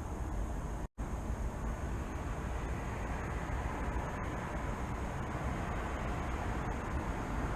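Steady rumble of distant city traffic, with a thin steady high tone above it. The sound drops out to silence for a moment about a second in.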